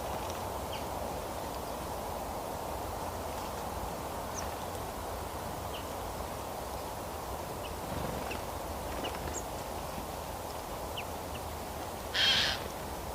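Birds giving scattered short, high chirps over a steady outdoor rush, with one brief, loud, harsh call near the end.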